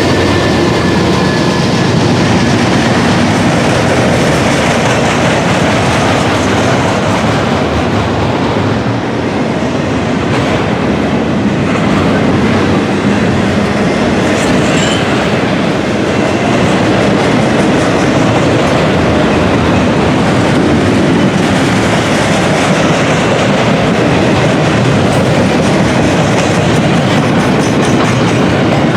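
Intermodal container train rolling past at close range: a steady, loud rumble of steel wheels on the rails, with the clack of the wheels over the track.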